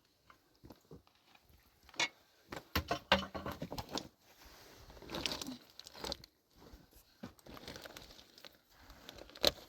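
Irregular rustling and handling noise with scattered knocks, busiest about two to four seconds in, and one sharp knock near the end.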